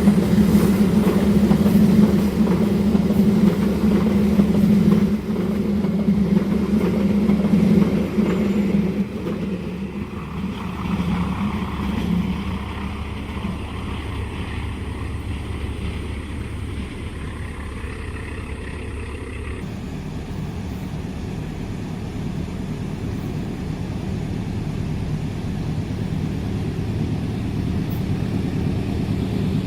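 Diesel-hauled passenger train passing a level crossing. A loud, steady engine hum with a low drone dominates for about the first nine seconds, then gives way to a quieter, steady rumble of the train running by.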